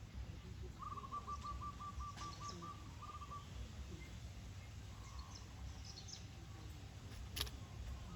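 A bird calling: a quick run of about a dozen short, evenly spaced notes, then a few brief high chirps, over a steady low outdoor rumble, with one sharp click near the end.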